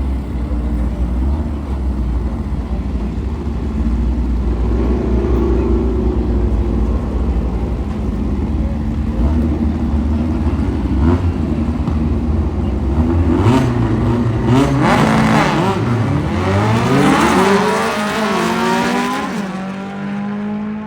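VW drag car engines running steadily at the line, then a car revving hard and accelerating about thirteen seconds in, its pitch climbing and dropping back through several gear changes before fading near the end.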